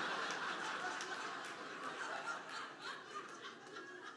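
Audience laughing after a joke, loudest at the start and gradually dying down.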